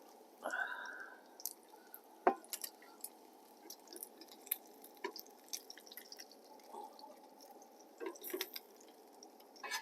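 Food frying in a pan: a low steady sizzle with irregular pops and crackles, and a brief louder rattle about half a second in.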